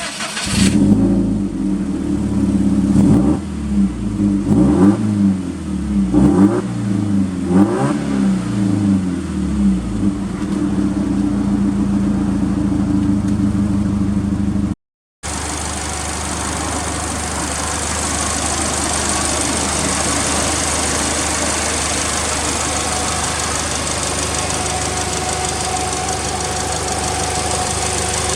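Subaru Impreza WRX STI's 2.0-litre turbocharged flat-four starting up, blipped four times in quick succession and settling into a steady idle. After a sudden cut about halfway, the engine idles on steadily, heard from another spot with more hiss.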